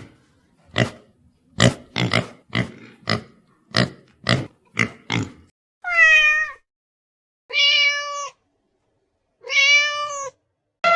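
A quick run of about a dozen short, sharp sounds, roughly two a second, then a domestic cat meowing three times, the first meow falling in pitch.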